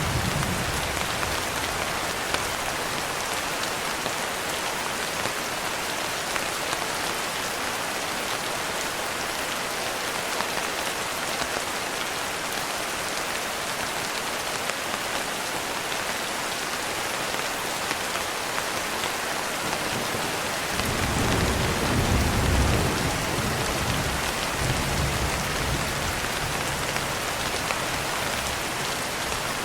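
Steady heavy rain falling. About two-thirds of the way through, a low rumble of distant thunder swells and fades.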